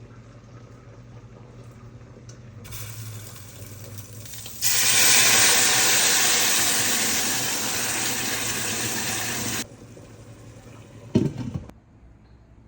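Kitchen faucet running: a softer flow, then water gushing at full flow that starts abruptly about four and a half seconds in and cuts off about five seconds later. A short knock follows near the end.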